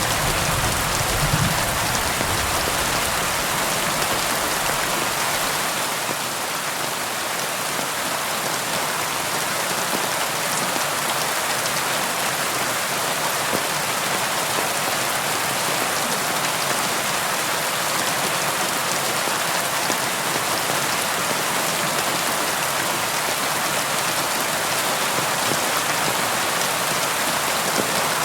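Steady rain falling and pattering on surfaces in an even hiss. A low rumble fades out over the first few seconds.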